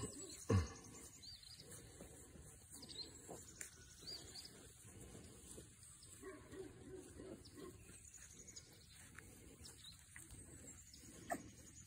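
Faint high chirping of birds, with a single low thump about half a second in.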